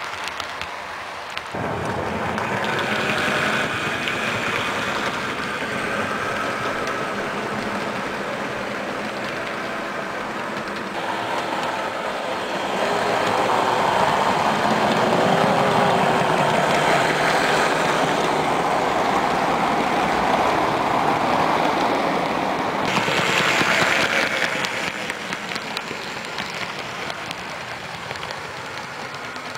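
HO scale electric model trains running on the track, a steady running noise from motor and wheels that shifts in character a few times and is loudest through the middle.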